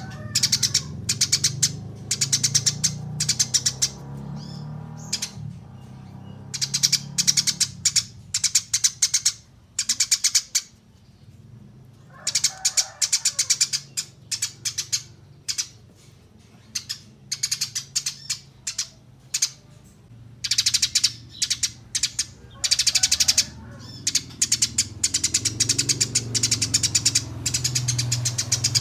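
Eurasian tree sparrow chirping: runs of quick, sharp, high chirps in bouts of a few seconds with short pauses between them, over a steady low hum.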